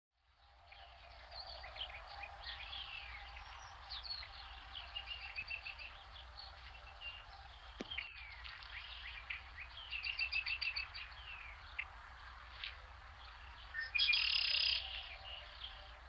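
Birdsong: several birds chirping, trilling and giving short down-slurred calls, fading in at the start. A loud, dense buzzy call about fourteen seconds in lasts around a second.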